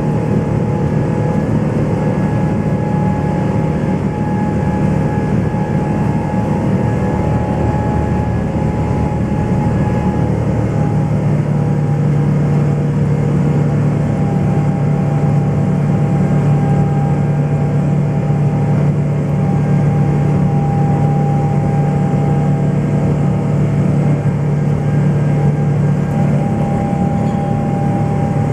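Boeing 777-300's GE90 jet engines running steadily at takeoff power, a dense roar with a steady low hum and a few higher whining tones; the low hum grows stronger about a third of the way through.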